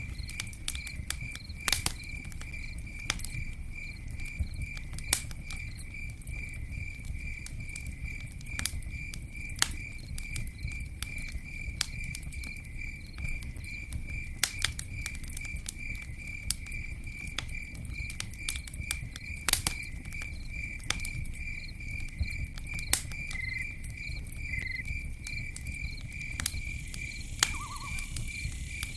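Campfire crackling, with scattered sharp pops over a low, steady rumble of burning wood. A cricket chirps steadily in a fast, even pulse throughout.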